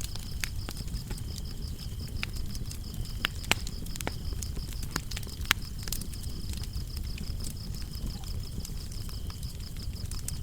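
Wood fire crackling with irregular sharp pops over a low steady rumble, with crickets trilling in a steady, high pulsing chirp throughout.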